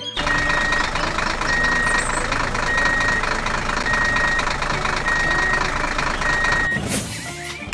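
A heavy vehicle's reversing alarm beeping steadily, six single-pitched beeps about a second apart, over a running engine. The beeps stop shortly before the end, followed by a brief rush of noise.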